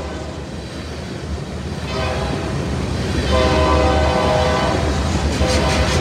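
Freight train's covered hopper cars rolling past with a steady low rumble, while the distant locomotive's horn sounds in separate blasts: a short one about two seconds in, a longer one in the middle and another short one near the end.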